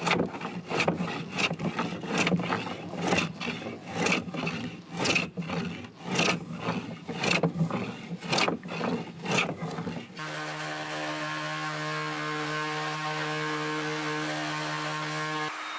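A hand tool worked on wood in rhythmic strokes, about two a second, over a steady low hum. About ten seconds in, the strokes stop and an electric tool's motor runs with a steady hum, which changes pitch near the end.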